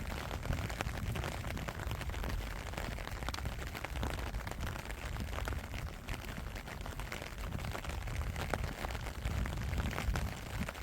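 Steady rain with many small drop ticks, over a continuous low rumble.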